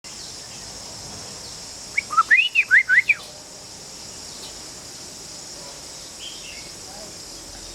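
An Oriental magpie-robin sings one short phrase of quick rising and falling whistled notes about two seconds in, over a steady high hiss.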